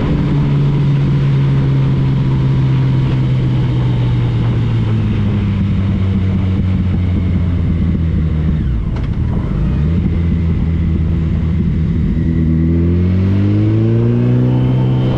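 Motorcycle engine running under way with wind and road noise. The engine note holds steady, drops as the throttle eases off around the middle, then rises again under acceleration near the end.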